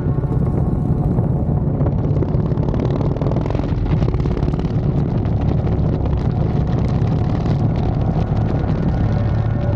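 Harley-Davidson Dyna's V-twin engine running steadily while riding at an even speed.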